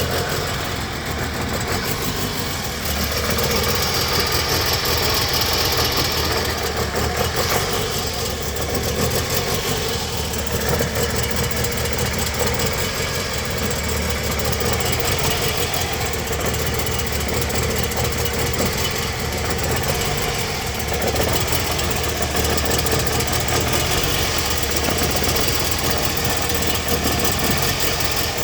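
Toyota Harrier's 2AZ-FE 2.4-litre four-cylinder engine idling roughly and misfiring, its idle speed wavering up and down. The owner blames something that has got into the evaporative charcoal canister.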